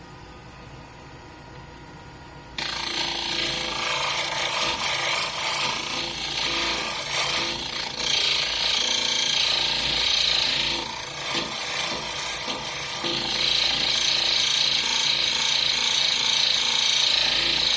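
Wood lathe running with a low hum, then about two and a half seconds in a tool meets the spinning pine bowl: a loud, rough rasping of wood being worked, swelling and easing as the tool moves.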